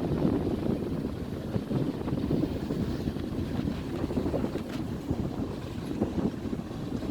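Train crossing the railway bridge, a steady rumble, mixed with wind buffeting the microphone.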